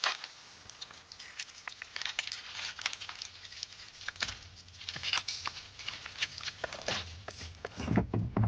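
Kitchen clatter: irregular clicks and knocks of shells, utensils and dishes being handled, with low voices near the end.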